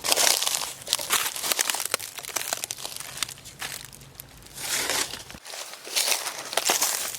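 Irregular crinkling and crunching rustles that come in bursts roughly a second apart, dense with fine crackles.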